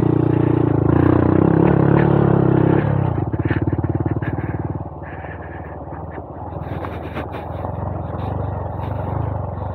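Honda Monkey 125's single-cylinder four-stroke engine running loudly under throttle, then easing off about three seconds in and settling to a quieter, lower-revving run. Scattered short knocks and clatter sound over the engine in the second half.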